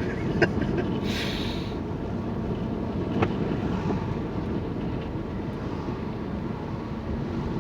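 Steady road and engine noise heard from inside a moving car, with a brief hiss about a second in and a couple of faint clicks.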